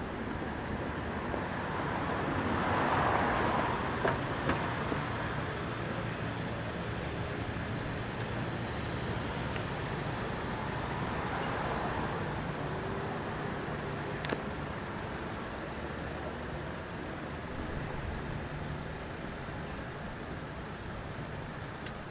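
Road traffic: a steady street hum with vehicles passing, one swelling past about three seconds in and another around eleven seconds, with a few short clicks.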